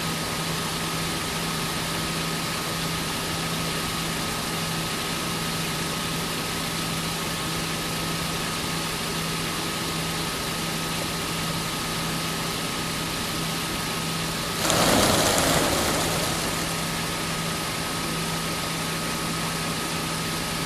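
A steady engine hum with a constant low tone, like an engine idling. About fifteen seconds in, a brief loud rush of noise swells over it and fades after a second or two.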